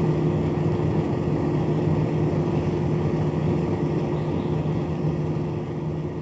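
Small battery-powered fan motor of a homemade cardboard toy air conditioner running steadily with an even hum and airy whir, starting to fade near the end.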